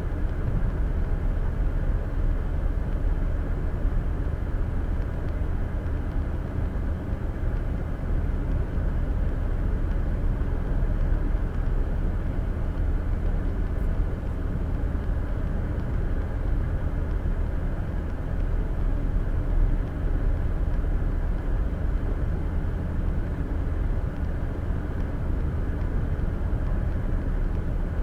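Steady low rumble of a car driving on the interstate, with tyre and engine noise heard from a dash cam inside the cabin.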